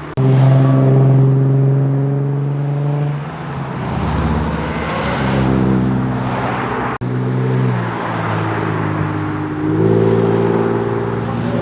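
Car engines and exhausts revving and pulling away, one car's engine note giving way to another's at a sudden cut about seven seconds in. A rush of louder noise midway suggests a car accelerating past.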